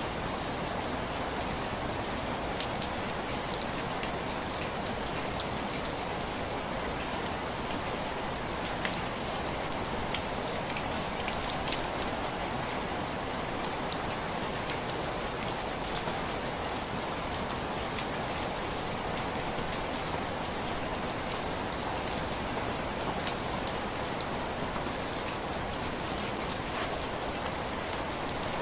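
Steady rain pattering on window glass: a constant hiss with scattered sharp drop ticks.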